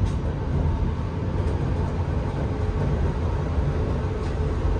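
Train running through a narrow, small-bore tunnel, heard from inside the carriage: a steady low rumble of wheels and air pressed in the confined tunnel.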